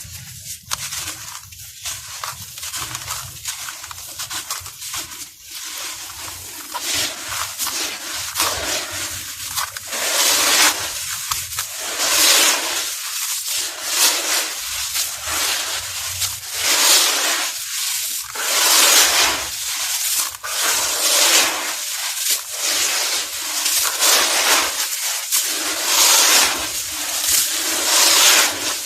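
Dusty, grainy moulded blocks crumbling and being crushed, a gritty rustle. It starts fairly quiet with small crackles, then from about a third of the way in comes in louder crunching surges about every second or so.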